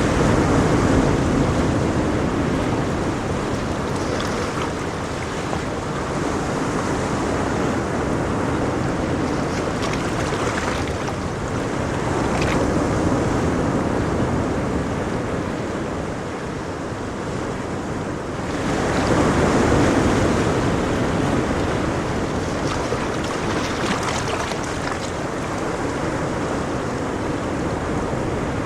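Ocean waves breaking on a shore, a steady wash of surf that swells and ebbs, with the largest wave surging about two-thirds of the way through.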